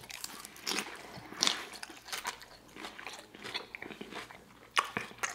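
Chewing and crunching mouthfuls of raw leafy salad, irregular crisp crunches and clicks, with a sharper, louder click near the end.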